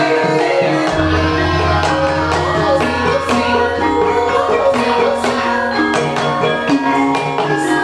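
Javanese gamelan ensemble playing in Banyumas style: bronze metallophones ringing in interlocking patterns over kendang drum strokes. A deep low gong tone comes in about a second in and rings on.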